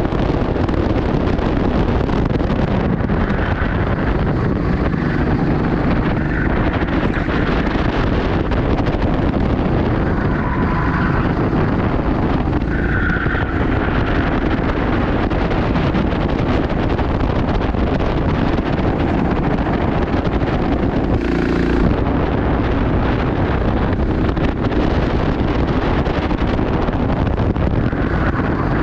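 Steady wind noise on the microphone over a constant low rumble.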